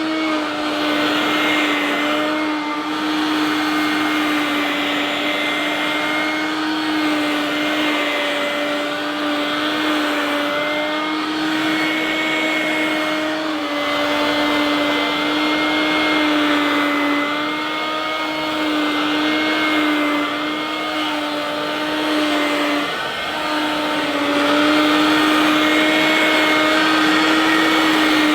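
Hoover Dustvac S1262 mains-powered handheld vacuum cleaner running continuously as it sucks up sand and rolled oats, a steady motor whine whose pitch wavers slightly, dipping briefly about two-thirds of the way through. The motor sounds a bit rough and rattly.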